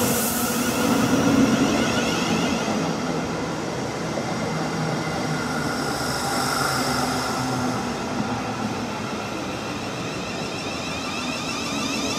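South Western Railway electric multiple-unit train running along the platform and slowing, its wheels rumbling on the rails under a whine of motor tones that shift in pitch.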